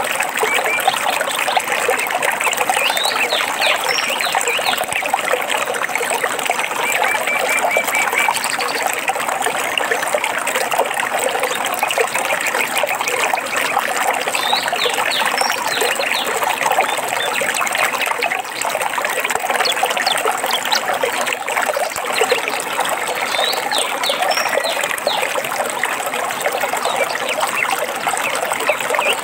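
Steady trickling and babbling of a small stream of water. Birds chirp now and then above it, including a short rapid trill.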